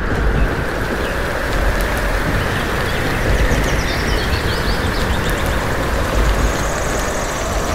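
Storm sound effect: a steady roar of wind and rain over a deep rumble, with a few faint bird chirps in the middle.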